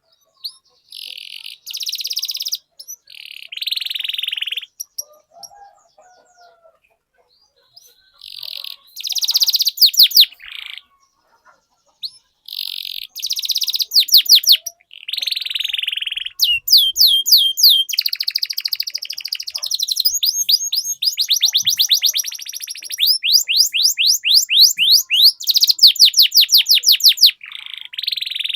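Domestic canary singing: short song phrases and fast rolling trills of rapidly repeated high notes, with pauses between phrases at first and then nearly unbroken song from about halfway through.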